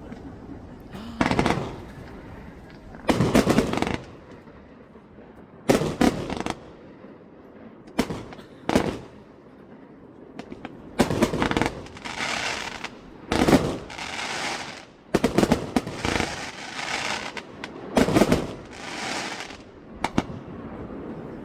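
Aerial fireworks bursting: loud bangs every second or two, several of them followed by a crackling hiss that lasts about a second.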